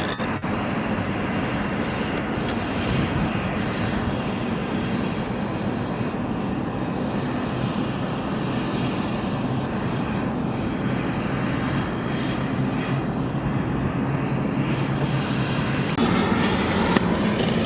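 Airplane engines running, a steady noise with a low hum that grows a little louder near the end.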